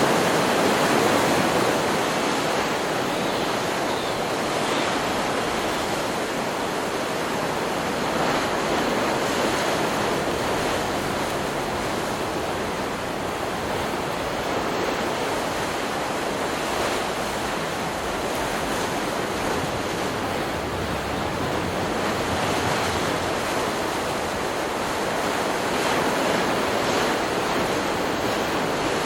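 Stock recording of ocean surf: waves breaking and washing in a continuous rush that swells and eases every few seconds, a little louder near the start.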